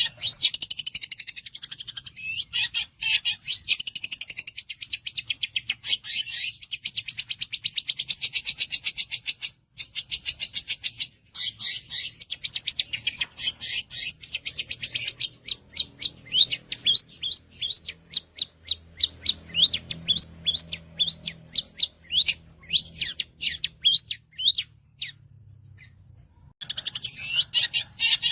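Long-tailed shrike (cendet) singing a fast, unbroken stream of rapid high chattering trills, then, from about halfway, a run of separate sharp falling notes, three or four a second. The song breaks off for a moment near the end and then starts again.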